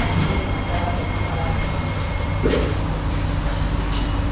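Kawasaki–CSR Qingdao Sifang C151A metro train standing at the terminus platform: a steady low hum of its onboard equipment, with a high steady whine that stops about halfway through. A click at the start and a knock a little later.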